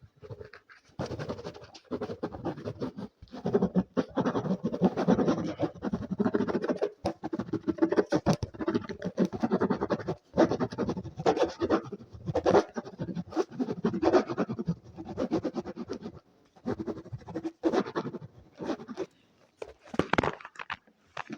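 Fast ASMR scratching on an object close to the microphone. It comes in dense runs of rapid strokes, nearly continuous at first, then in bursts of a second or two with short pauses between.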